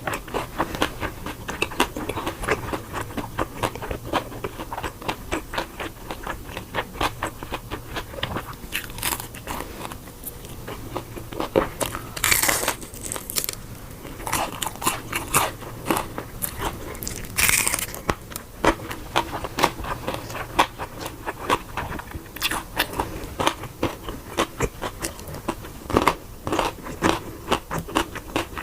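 Crunchy biting and chewing of crispy fried chicken, a fast, continuous run of crackly crunches with a few louder bites about twelve and seventeen seconds in.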